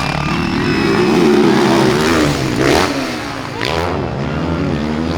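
Motocross bike engines revving hard and changing pitch through the gears as the racers pass.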